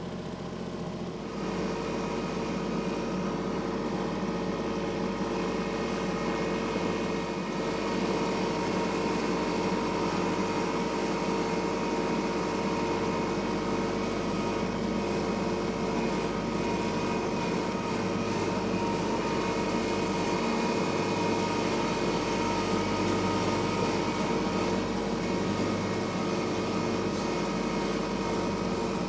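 Tractor engine running steadily, its pitch and loudness stepping up slightly about a second in as the throttle is raised.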